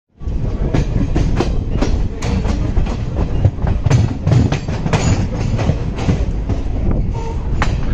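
Passenger train running along the line, heard from an open coach door: a steady rumble with the wheels clattering over the rails in many sharp clacks, and wind rushing past.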